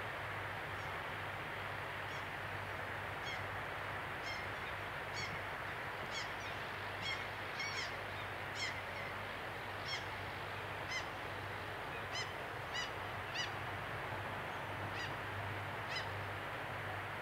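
A bird calling over and over, short sharp pitched calls about once a second that grow louder toward the middle and then fade, over a steady outdoor hiss.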